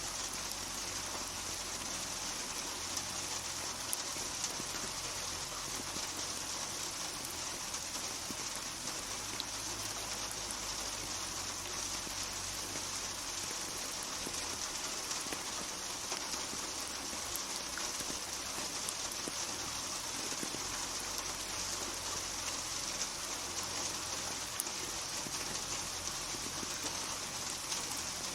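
Steady rain falling and pattering on a surface, with a dense hiss and fine individual drop ticks.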